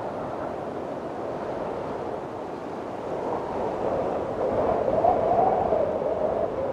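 Windstorm wind blowing steadily. From about halfway it builds into a louder gust with a wavering tone, which eases near the end.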